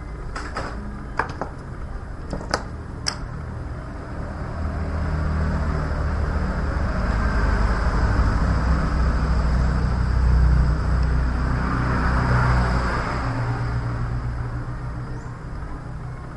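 A few sharp clicks in the first three seconds, then a low engine-like rumble that swells to a peak about ten seconds in and fades away again.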